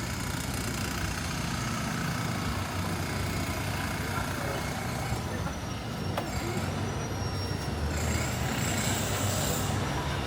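City street traffic: a steady hum of vehicle engines under a continuous wash of street noise, with a faint high whine for a couple of seconds about halfway through.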